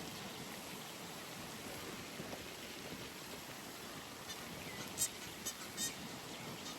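Steady hiss of rain at a pond, with a bird giving a few short, harsh calls about two-thirds of the way through, the loudest near the middle of the group.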